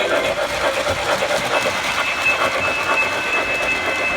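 Model train running on its layout track, with the steady rolling and clicking of wheels over the rails. A thin, steady high tone joins about one and a half seconds in.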